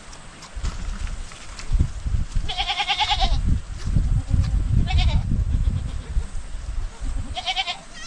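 Sheep bleating three times: a long wavering bleat, a short one, then another near the end. Low rumbling noise runs underneath.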